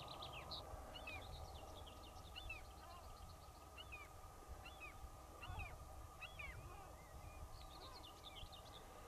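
Small birds chirping and calling: a string of short, high, downslurred calls, with quick trills near the start and again near the end, over a faint steady low background noise.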